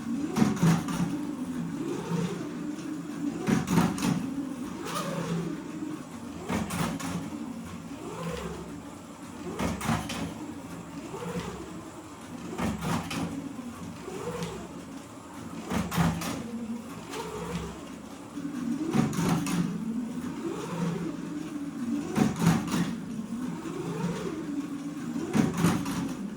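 Scalextric Growler monster truck slot car running laps: its small electric motor whines, rising and falling in pitch as it speeds up and slows every second or two. Sharp clacks and knocks from the plastic truck hitting the track and ramps come through it.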